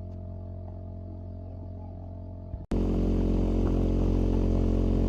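Motorcycle engine running steadily, with an abrupt jump to a louder level about halfway through.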